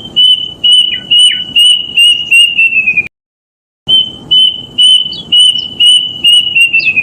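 Kedasih, a Cacomantis cuckoo, singing two phrases of about eight repeated whistled notes, each phrase quickening and dropping slightly in pitch at the end, with a short pause between them. The bird is recorded in the wild, with rough background noise under the song.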